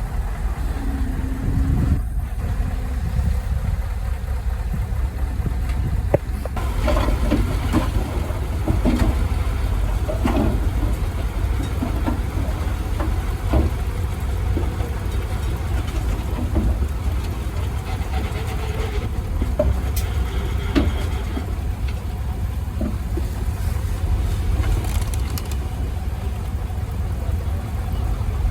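Heavy machinery engine running steadily with a deep rumble, with scattered short knocks and clanks starting about six seconds in.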